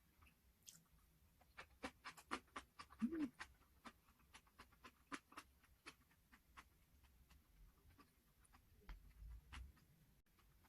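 Close-up chewing: faint wet mouth clicks and smacks a few times a second, with a short closed-mouth hum about three seconds in.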